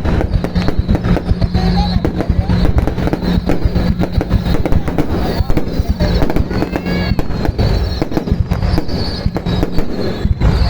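Aerial fireworks display: a dense, unbroken barrage of bangs, many to the second, at a steady loud level.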